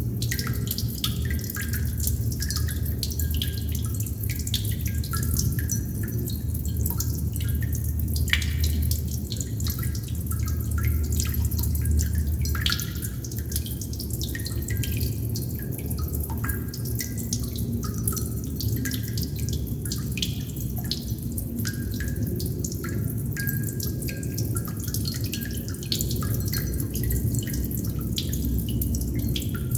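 Water droplets dripping irregularly, many small drips in quick succession, each a short plink, over a steady low rumble.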